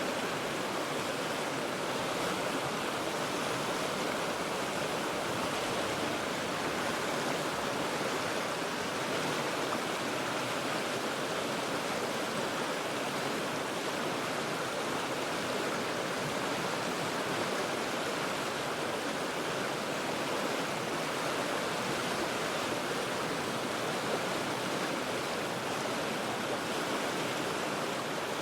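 River water rushing steadily over rocks, an even, unbroken wash of noise with no single splashes standing out, heard from high above the water.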